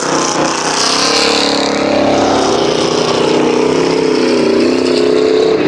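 Eight-cylinder stock car engines running hard as the cars race around the track, the engine note wavering up and down.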